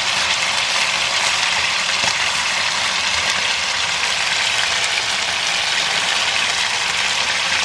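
Chicken pieces frying in hot ghee in a pan, a steady sizzle.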